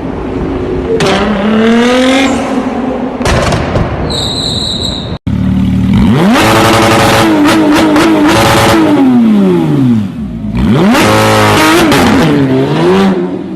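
Car engine revving hard through a loud aftermarket exhaust, its pitch climbing and dropping again and again. Just before an abrupt cut about five seconds in there is a brief high tone, and after the cut the revs swing quickly up and down in repeated blips.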